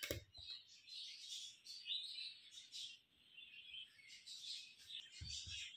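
Small birds chirping steadily in the background, with a sharp knock at the start and two low thumps about five seconds in.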